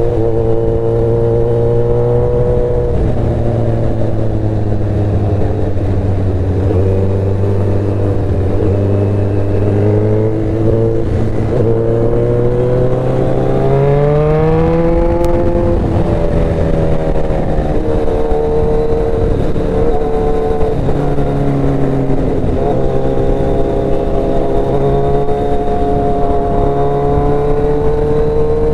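Motorcycle engine running while riding. The pitch holds steady, climbs about halfway through, then drops as the revs fall and settles again.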